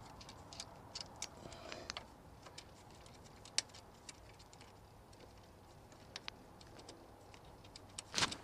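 Scattered light clicks and ticks of small metal parts, bolts and tools being handled while fitting a motorcycle exhaust hanger, with a louder cluster of clicks near the end.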